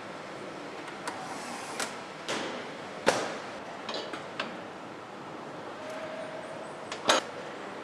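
Factory assembly-hall noise: a steady background hum with scattered knocks and clanks, the loudest about three seconds in and again near the end.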